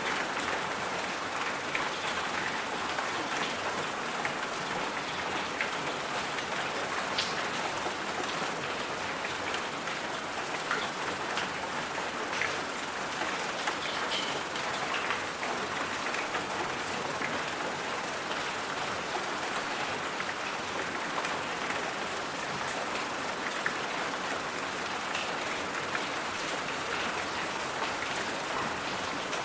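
Steady rain: an even hiss with scattered small drop ticks on top.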